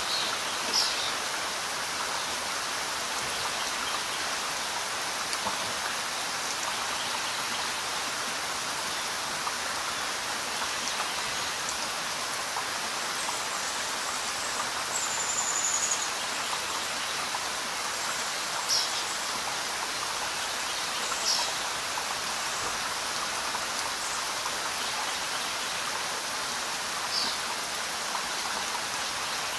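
Steady rain falling on leaves and surfaces, an even hiss with no change in strength. A few brief high-pitched blips stand out above it now and then.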